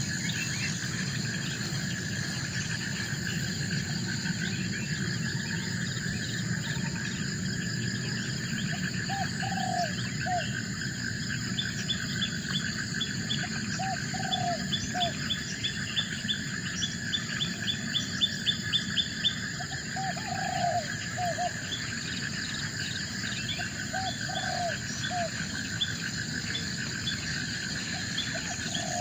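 Forest ambience: a steady chorus of insects buzzing at several pitches, with a bird giving short calls in twos and threes every four to five seconds. A run of rapid ticking calls comes in the middle.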